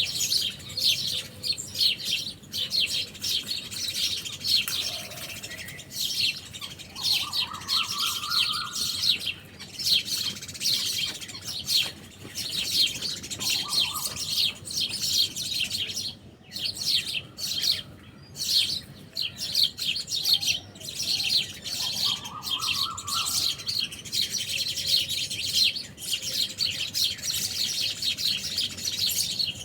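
A flock of small birds chirping densely and continuously in high, rapid notes. Three times, a lower, longer arching call from another bird cuts through.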